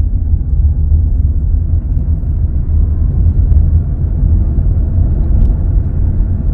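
Road and engine noise inside a moving Dacia Jogger's cabin while driving: a steady, heavy low rumble.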